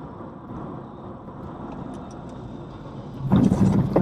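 Steady road and engine rumble of a moving car, then about three seconds in a sudden loud burst, heavy low down and lasting under a second, ending with a sharp knock.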